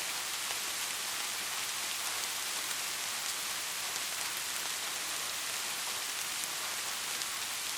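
Steady rain falling, an even hiss with the odd faint drop tick and no thunder.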